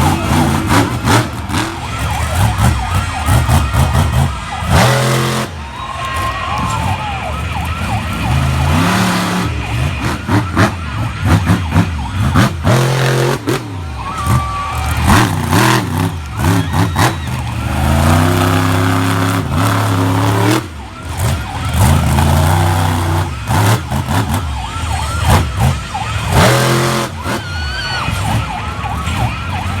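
Monster truck engine revving hard, its pitch climbing and falling again and again as the throttle is blipped, with several loud bursts of noise.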